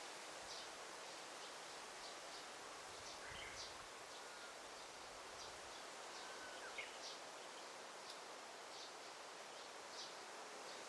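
Faint forest ambience: a steady hiss of background noise with many short, high bird chirps scattered throughout, and a couple of brief lower whistled bird notes about a third and two-thirds of the way in.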